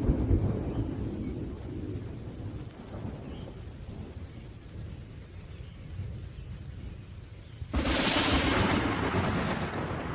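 Thunderstorm with steady rain, a low thunder rumble fading over the first few seconds. About three-quarters of the way through, a sudden loud crash of nearer thunder breaks in and slowly dies away.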